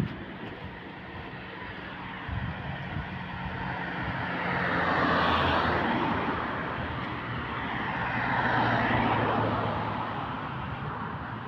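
Rushing vehicle noise with a low hum, swelling to a peak about halfway through, swelling again about three-quarters through, then fading.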